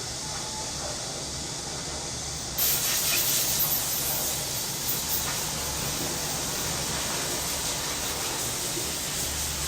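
Summer cicadas buzzing as a steady high hiss. About two and a half seconds in, a closer cicada starts up and the buzz suddenly grows louder and higher, over a low steady city hum.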